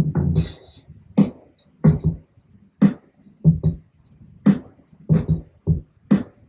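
Programmed drum beat built from sampled live drum kit sounds, playing back: an open hi-hat hiss about half a second in, then kick and snare hits with short closed hi-hat ticks between them.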